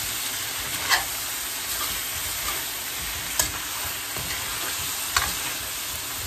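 Chicken wings sizzling in a wok while a spoon stirs them, the spoon knocking sharply against the pan about three times.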